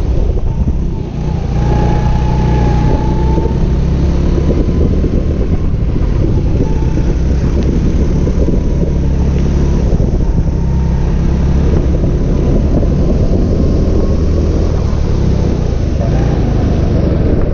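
Go-kart engine running hard, heard from onboard the kart, with a steady low drone that dips briefly about a second in.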